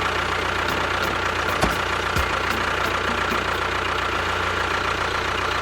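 A mini tractor's engine running steadily at idle, with an even, unchanging hum and a thin high whine.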